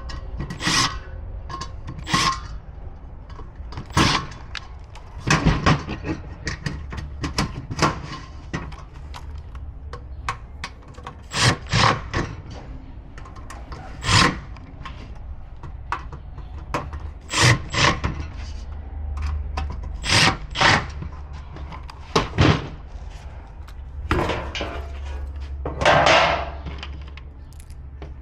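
Irregular knocks and scrapes of gas grill parts being handled and fitted during assembly, with a couple of longer rubbing scrapes in the second half.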